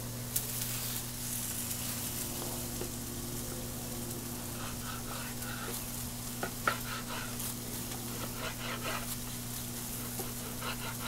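Onions and peppers sizzling in oil on a Blackstone griddle, a steady hiss, with a low steady hum under it. Short, light taps of a knife on a wooden cutting board come through in the middle and again near the end as steak is cut.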